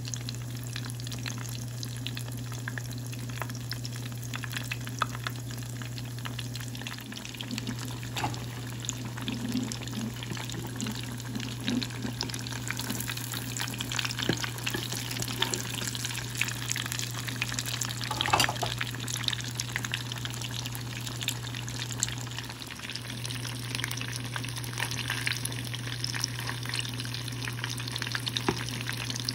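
Breaded basa fish fillets deep-frying in hot oil, sizzling with a dense, steady crackle that grows busier midway. A steady low hum runs underneath.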